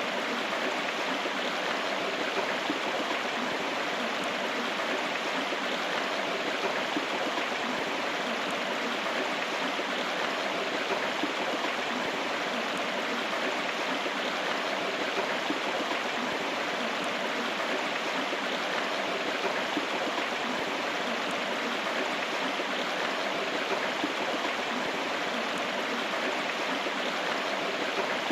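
River water flowing and babbling steadily over rocks, an even rushing with no change in level.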